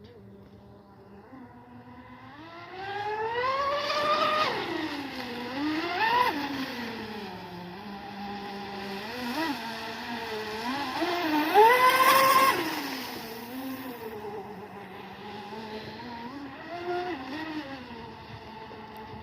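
Twin electric motors of a TFL Zonda RC racing boat whining at high speed, the pitch rising and falling as the throttle is worked. The loudest pass comes about twelve seconds in, with a sharp rise and then a falling pitch as it goes by.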